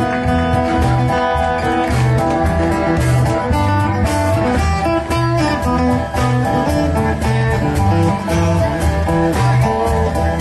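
Live band playing, with plucked guitar to the fore over a bass line and a steady beat.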